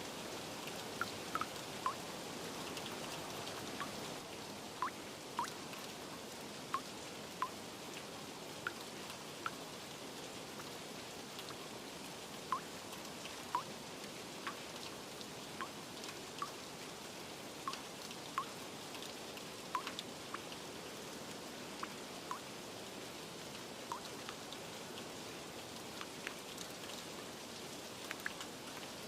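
Steady rain with scattered water drops plinking irregularly, about one a second.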